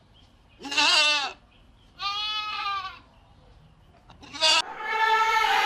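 Bleating farm animals: several separate calls in turn, about a second in, a longer one between two and three seconds, a short sharp one near four and a half seconds, then a long drawn-out call near the end.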